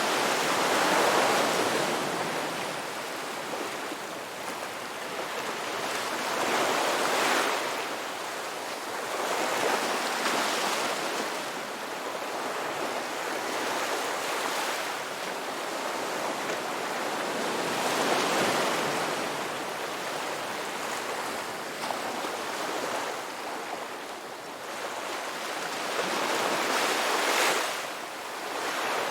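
Ocean surf, the waves surging in and fading away every few seconds, with the strongest surges about a second in and near the end.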